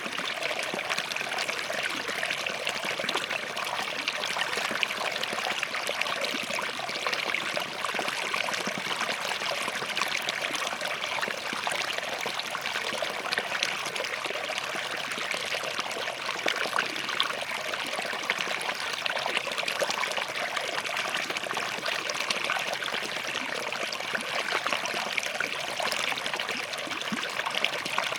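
Small forest stream flowing and trickling between rocks, a steady babbling of running water.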